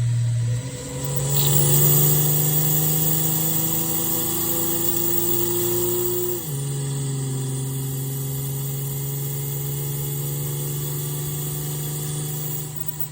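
2010 Ford Fusion Sport's 3.5-litre V6 with an aftermarket intake, accelerating with the engine note climbing steadily for about five seconds. About six seconds in the revs drop at an upshift, and the engine then holds a steady pitch before fading near the end.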